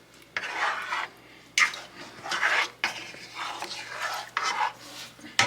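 A utensil stirring and scraping in a pot of melting butter and cheese: a run of short strokes, about one a second.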